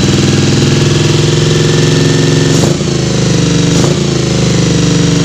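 Honda VFR400's 400 cc V4 engine running at a steady idle just after starting, its carburettors freshly overhauled and not yet synchronised. Twice, a bit under three and about four seconds in, the engine note briefly dips and recovers.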